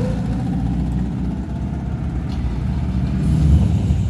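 Car engine idling with a steady low pulse, getting louder a little after three seconds in.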